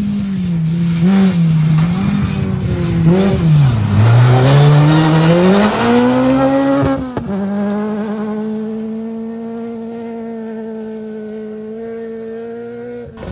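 Rally car engine on a gravel stage: revs fall and climb through gear changes as the car takes a corner, with tyre and gravel noise loudest in the middle. After a sharp break about seven seconds in, the engine holds a steady note and slowly fades as the car pulls away.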